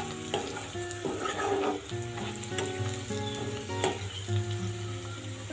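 Sliced onions, bay leaves and freshly added cumin and coriander powder sizzling in hot oil in a non-stick pan, stirred with a spatula that scrapes and knocks against the pan a few times.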